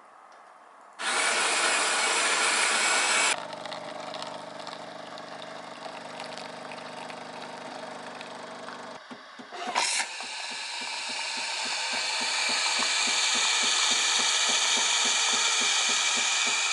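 Jura coffee machine grinding beans for about two seconds, then its pump humming steadily as an espresso brews. Near ten seconds in there is a click and a knock, then a loud hiss that swells and pulses as the machine heats milk with steam.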